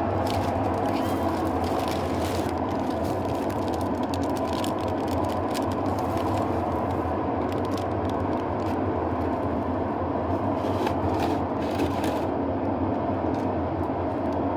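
Washing machine running with a steady, loud mechanical hum and drone, with scattered light ticks over it.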